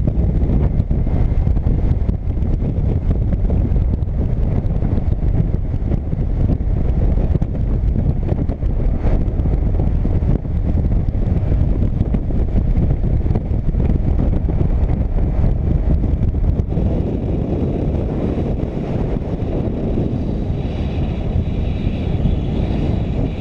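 Heavy wind rushing over the microphone on a moving motorcycle, with the bike's engine and road noise as a steady low rumble underneath.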